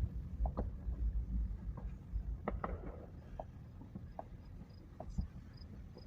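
Low rumble of a car driving, with a few faint, short pops and clicks scattered through it.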